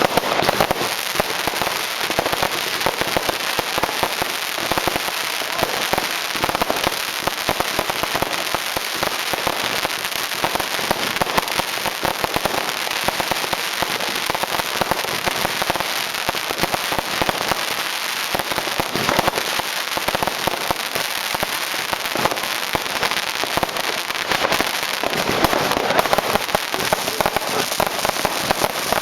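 New Year's Eve fireworks and firecrackers going off in a dense, unbroken barrage of crackling and popping, many bangs overlapping with no pause.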